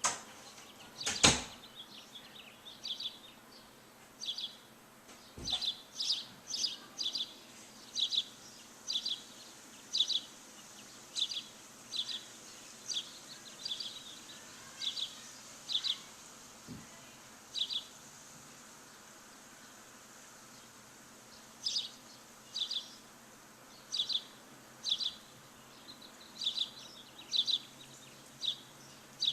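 A bird chirping over and over in short, high chirps, roughly one a second, pausing for a few seconds past the middle, over a faint steady hiss. A sharp knock about a second in is the loudest sound.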